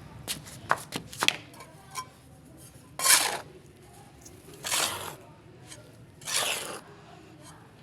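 A few light clicks and taps, then four scraping strokes of a utensil through a wet powder mix in a bowl, each about half a second long and coming about every second and a half.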